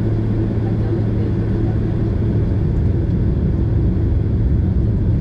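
Boeing 767 cabin noise: a steady rumble of the engines and airflow with a low, even hum, heard from inside the cabin.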